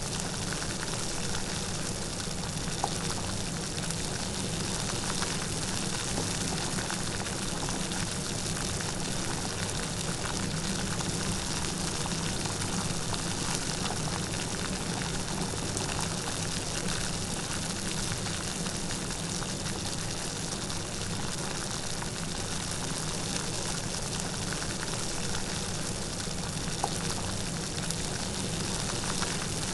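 Light rain falling steadily: an even hiss with faint scattered drop ticks.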